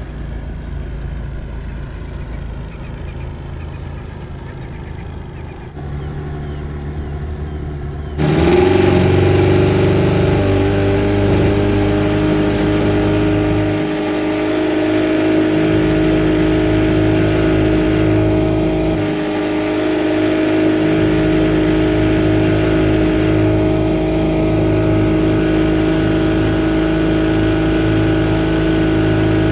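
Boat motor running. About a third of the way in it jumps louder, revs up and then holds a steady high speed.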